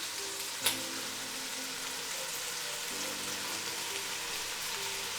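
Stew ingredients sizzling steadily in a hot cooking pot (sufuria), with one sharp knock under a second in. Soft background music plays underneath.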